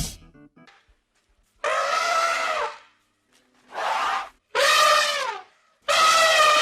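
Elephant trumpeting: four loud, brassy calls, about a second apart, most of them falling in pitch at the end.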